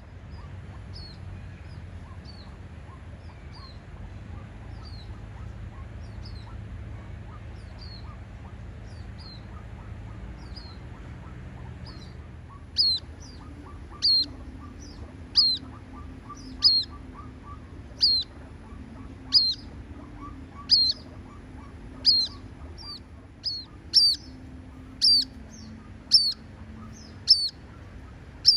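White-breasted waterhen giving a monotonous series of short, sharp, high calls, one about every second and a quarter, the same note over and over. The calls are faint at first and much louder from about halfway through, over a steady low background noise.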